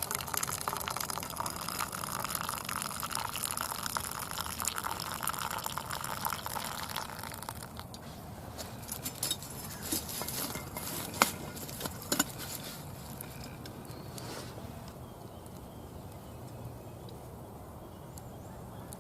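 Coffee pouring into a cup for about eight seconds, then a few sharp clinks and knocks.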